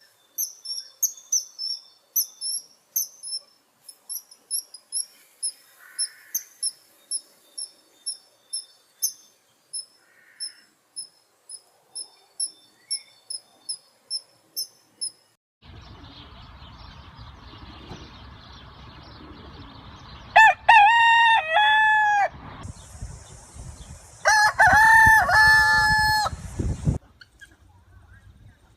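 A small bird chirping in short, rapid, high notes for about fifteen seconds. Then, over a steady outdoor hiss, a rooster crows twice.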